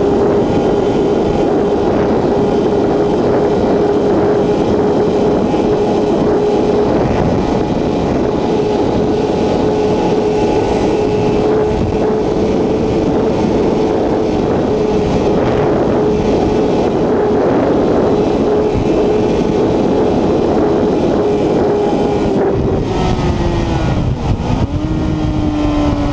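Honda CBR1000RR Fireblade's inline-four engine holding one steady, high-revving note at top speed, around 290–299 km/h, buried in heavy wind rush. About 22 seconds in the note falls away as the bike slows, dips once and steps back up slightly.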